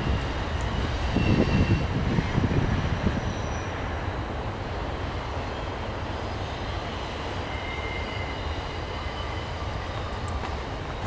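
Double-stack container train's cars rolling through a curve, a steady rumble with faint high-pitched wheel squeals that come and go.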